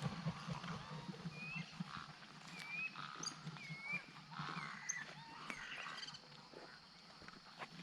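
Birds at a wading-bird gathering calling: a series of about five short whistled notes, each bending in pitch, roughly one a second, over a steady low background of other animal noise.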